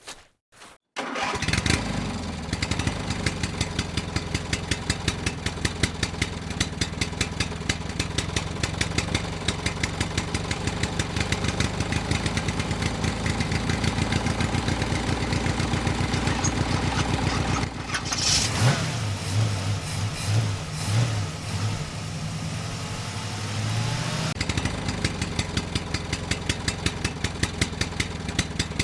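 Small engine on a homemade mini tractor starting up about a second in, then running with a fast, even beat. About two-thirds of the way through, a short hiss comes, and for several seconds the engine's hum changes pitch before the steady beat returns.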